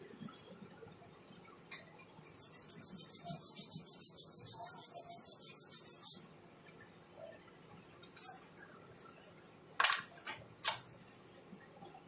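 Small sharp clicks and taps of tools and parts being handled in a phone repair, the loudest a little before the ten-second mark. For about four seconds in the middle there is a rapid, even, high-pitched pulsing hiss from a small device.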